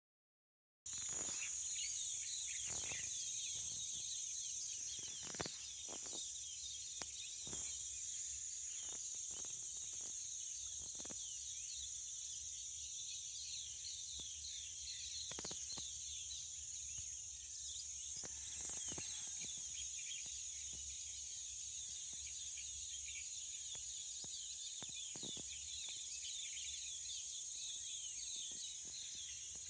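Riverside dawn chorus: many birds chirping busily over a steady high-pitched insect drone, with a few short clicks.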